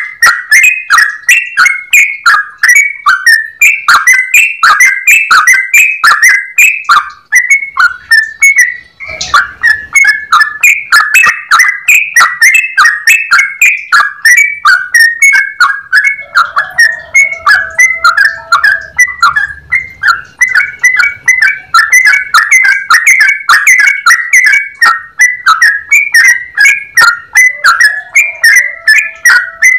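Sooty-headed bulbul (trucukan) singing a long, fast run of clear, evenly repeated whistled notes, with a brief break about eight seconds in.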